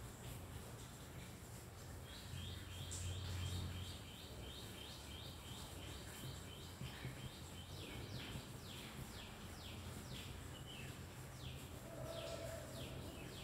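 A small bird chirping: a quick run of short, even notes, then a series of falling chirps, a few a second.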